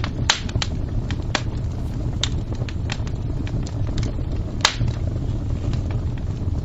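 A fire crackling: irregular sharp pops and snaps over a steady low rumble, with one louder pop a little past halfway.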